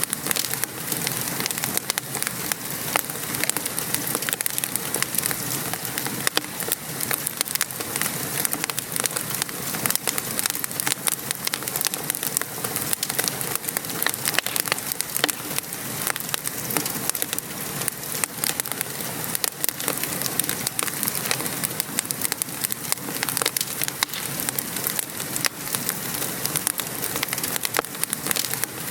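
Steady rain pattering, with a fire crackling: a dense even hiss full of many small clicks and pops.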